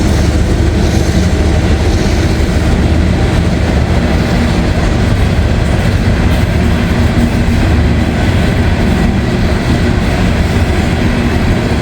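Loaded CSX coal train rolling slowly past on the nearest track: a loud, steady rumble of the loaded cars going by.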